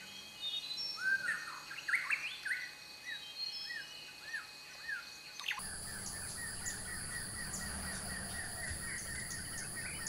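Bird calling in a series of short, arched chirps, about two a second. About five and a half seconds in the sound cuts abruptly to a steady, high insect drone, with a faint quick chirping under it.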